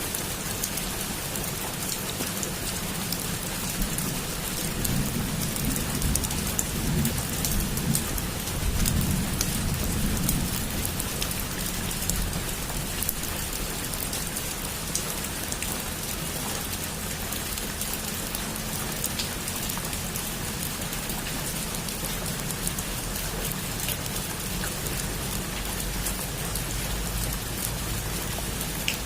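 Heavy rain falling steadily on a roof, a dense even hiss of drops. A low rumble swells up about five seconds in and fades by about ten.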